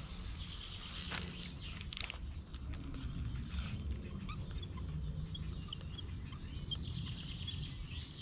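Scattered short bird chirps over a steady low rumble, with two brief sounds about one and two seconds in.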